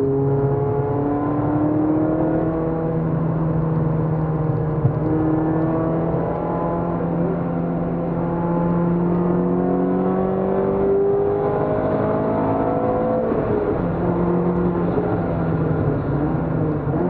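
Peugeot 206 RC's four-cylinder petrol engine heard from inside the cabin, pulling hard under full throttle with its pitch rising steadily as the car accelerates. A little past halfway the note drops suddenly, then climbs again, and it falls away and wavers near the end as the car brakes hard.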